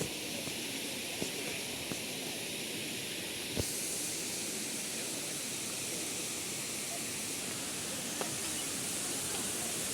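Steady rushing hiss of falling water from a waterfall, with a few faint clicks. A sharp knock comes about three and a half seconds in, after which the rush sounds brighter.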